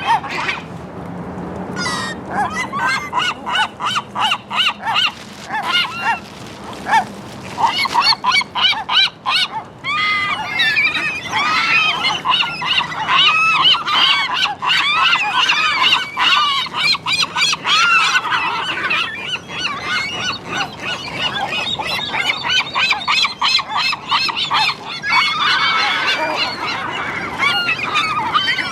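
A flock of gulls calling, many short calls overlapping one another, growing thick and continuous about ten seconds in.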